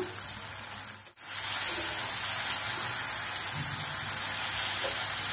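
Onions and tomatoes with freshly added ginger-garlic paste sizzling steadily in oil in a steel kadai. There is a brief break about a second in.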